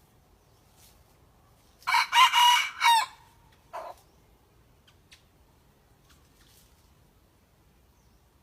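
Young red junglefowl decoy rooster crowing once, a short crow of about a second in a few parts, then one brief short call just after. The bird is still learning to crow.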